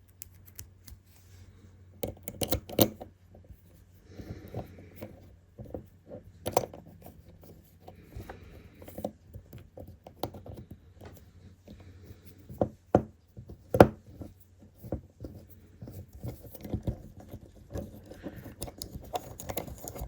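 Small screws, tools and printer parts being handled while a 3D printer is put back together: scattered clicks, taps and scrapes, the sharpest about fourteen seconds in, over a low steady hum.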